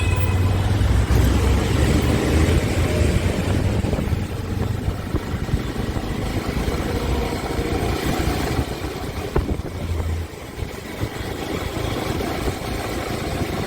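Motorcycle riding along with its engine running, and wind rushing over the microphone. The low engine rumble eases off about ten seconds in.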